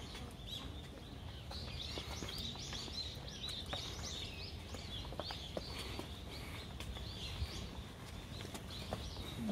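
Small birds chirping over and over in the trees, short sweeping calls one after another, over a steady low hum of background noise, with a few faint clicks.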